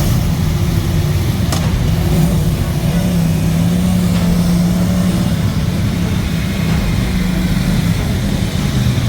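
A vehicle engine running steadily with a low hum, with a brief click about a second and a half in.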